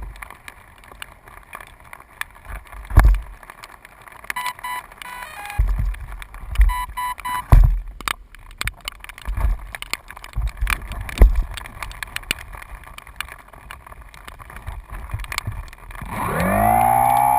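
Irregular thumps and knocks, with a few short beeps in the middle. About a second before the end, an engine starts revving, its pitch rising and falling.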